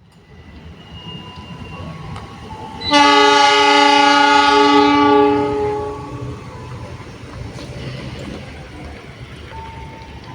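Diesel locomotive air horn sounding one loud, sustained chord for about three seconds, starting about three seconds in and then fading, over the low rumble of a passing train.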